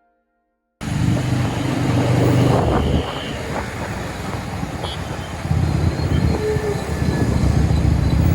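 Motorcycle riding along a highway: steady engine and road rumble that cuts in abruptly under a second in, eases off a little about three seconds in and grows louder again from about five and a half seconds.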